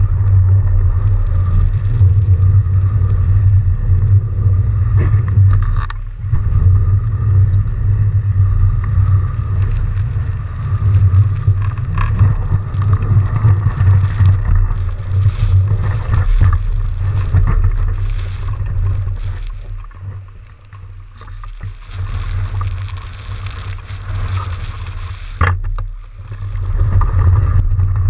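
Riding noise on a fat bike in a snowstorm: a loud, steady low rumble of wind buffeting the microphone, with scattered small clicks and rattles. It eases for a couple of seconds about two-thirds of the way through.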